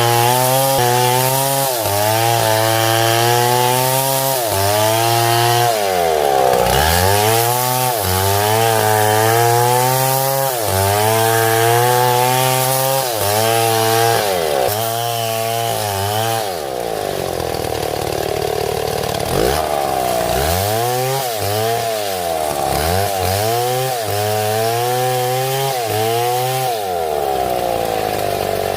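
Two-stroke chainsaw cutting wood, its engine speed dipping and recovering about once a second as the chain bites. In the middle it runs slower and lower for a few seconds before the rhythmic dips return.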